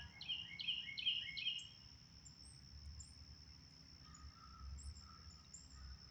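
A songbird calling a quick run of about five repeated notes in the first second and a half, then a few faint high chirps, over a steady high-pitched insect drone.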